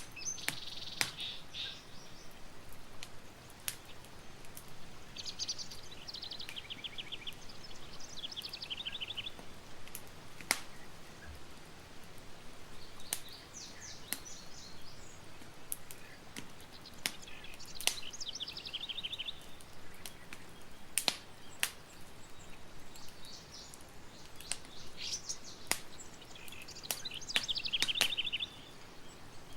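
Campfire crackling with scattered sharp pops, while a songbird sings a short, fast trilled phrase that falls in pitch, repeated every few seconds.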